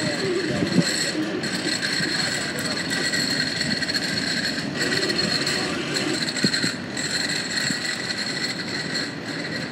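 Autorack freight cars of a vehicle train rolling past: steady wheel-on-rail noise with rattles and knocks, and a faint steady high ringing over it.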